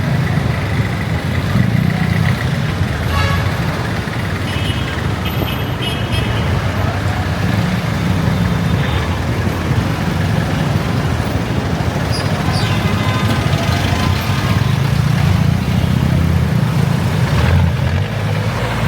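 Motorcycle engine running steadily under way, with road and wind noise and the traffic around it.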